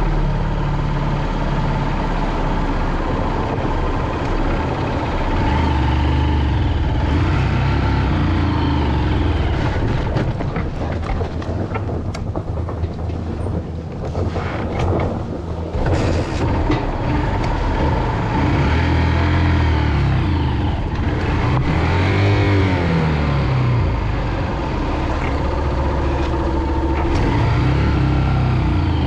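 Small single-cylinder motorcycle engine (Honda CG125) running under way, its pitch rising and falling several times with the throttle, with a lighter lull about halfway through.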